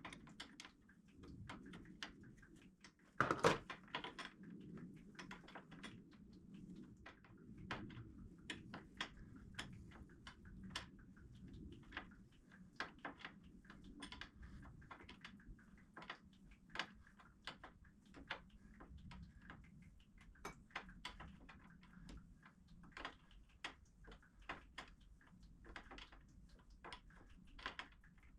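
Irregular clicks and knocks of hand tools and parts being handled during work on a car's transmission lines, with one louder knock about three seconds in, over a low steady hum.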